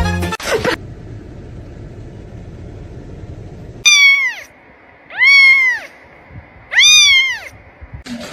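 A cat meowing three times, each meow rising and then falling in pitch and lasting about half a second, roughly a second and a half apart.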